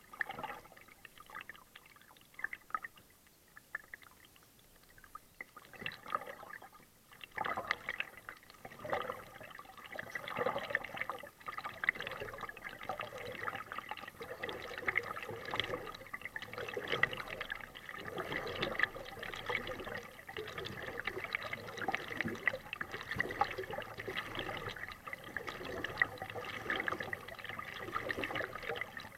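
Water trickling and splashing around a kayak, sparse at first and becoming continuous from about seven seconds in.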